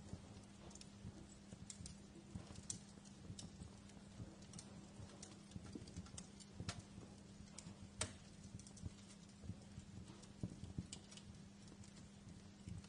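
Wood fire crackling in a fireplace: irregular snaps and pops of varying strength, the sharpest about eight seconds in, over a steady low hum.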